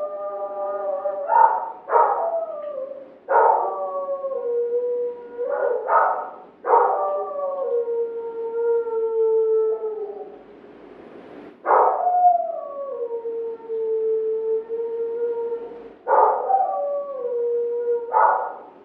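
Dog howling: a series of long howls, each starting high and sliding down to a held note, some overlapping one another.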